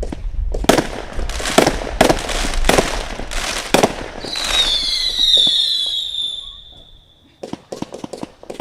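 A consumer firework cake fires shots in quick succession, roughly one every half second. It is followed by a long whistle that falls slowly in pitch, then a short run of fast crackling near the end.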